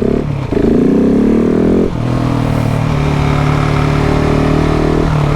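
KTM 690 SMC R single-cylinder engine accelerating away. The revs climb, break briefly for an upshift about half a second in, and climb again. At about two seconds they drop to a steadier, lighter-throttle run.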